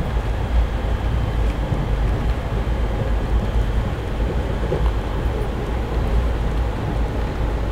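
Passenger train running along the track, heard from inside the carriage: a steady low rumble.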